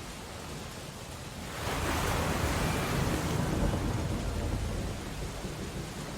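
Steady hiss of rain on window glass. About one and a half seconds in, an ocean wave surges and breaks, louder for about three seconds before fading back into the rain.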